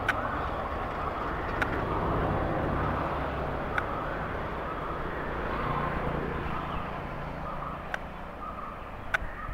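Passenger train coaches rolling away on the rails: a steady rumble that slowly fades as the train recedes, with a few sharp clicks at uneven intervals.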